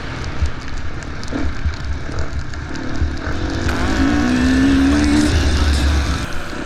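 Four-stroke KTM enduro dirt bike engine running under throttle, its pitch rising as it revs up around four seconds in.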